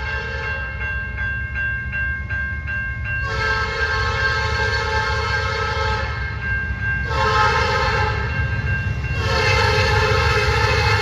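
Locomotive air horn sounding a long blast, a shorter blast and another long blast, over the steady rumble of a passing train. A bell rings rapidly for the first few seconds before the horn comes in.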